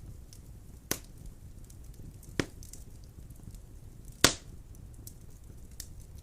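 Wood fire burning in a fireplace: a low steady rumble of flames with faint crackling and three sharp pops of burning wood, about a second in, near the middle and, loudest, about four seconds in.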